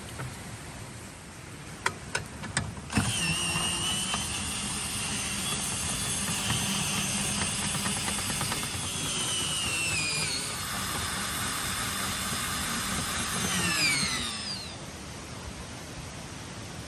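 A small electric motor, like a power tool or kitchen appliance, switched on after a few clicks: it runs with a high whine for about eleven seconds, changes pitch partway through, then winds down and stops.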